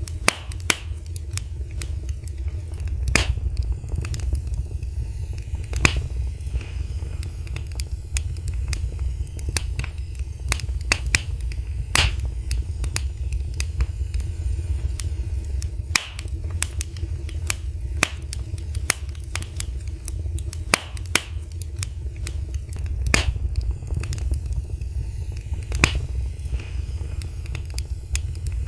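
Wood fire burning in a fireplace: irregular sharp crackles and pops, several a second with a few louder snaps, over a steady low rumble of the flames.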